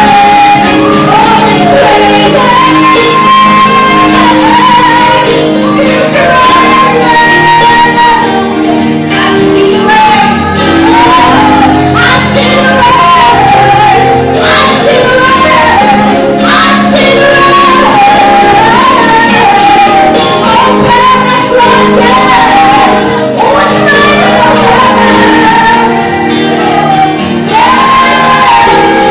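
Loud worship music: a singing voice carrying a wandering melody over sustained chords.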